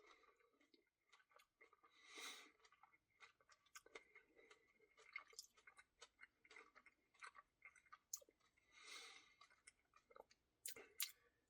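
Faint chewing and wet mouth clicks from someone eating cookie dough ice cream, with a couple of short soft smacks among scattered small clicks.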